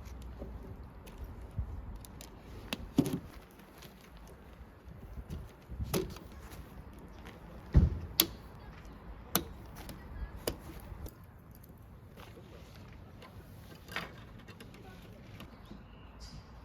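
Camping gear being handled: a scattered run of clicks and knocks, with a heavier thump about eight seconds in.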